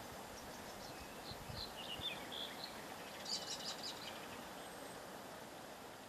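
Small birds chirping in a few short, high bursts over a steady outdoor hiss, with the busiest run of rapid chirps about three seconds in. The sound eases slightly near the end.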